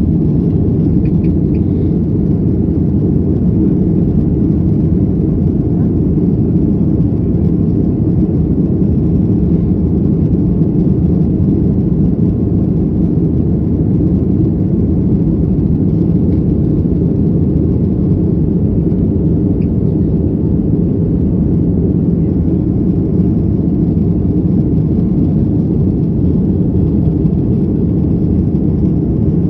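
Cabin noise of a Boeing 737-800 from a window seat near the rear: a steady low roar of the CFM56 jet engines and airflow, unchanging throughout.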